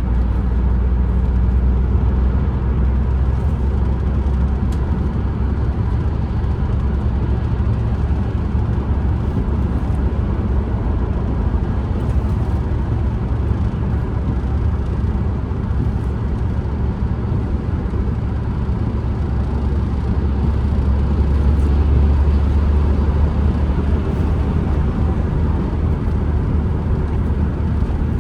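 Ford Transit Connect van being driven, heard from inside the cabin: a steady, deep rumble of engine, tyre and wind noise that swells slightly about three-quarters of the way through.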